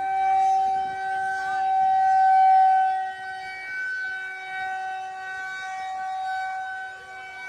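Outdoor tornado warning siren sounding one steady tone, swelling and fading in loudness.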